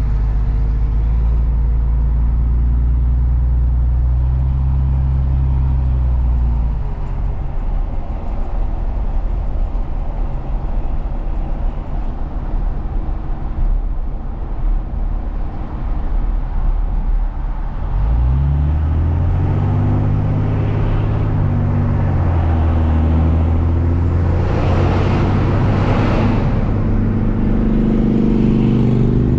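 Truck engine heard from the cab with road noise: it runs steadily, eases off about a quarter of the way in, then a little past halfway it pulls again, its pitch rising as it accelerates. A brief swell of rushing noise comes near the end.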